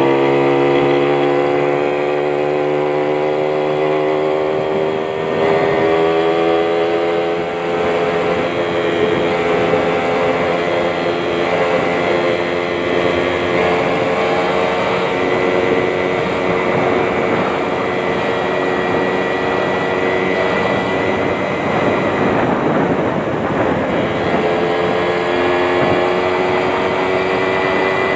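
Yamaha Champ two-stroke motorcycle engine running through a racing exhaust, loud and steady, its pitch climbing slowly in long stretches and dropping back a few times.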